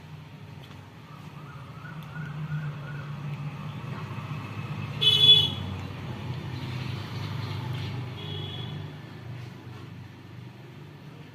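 Steady hum of road traffic, with a short, loud horn toot about five seconds in and a fainter pitched sound a few seconds later.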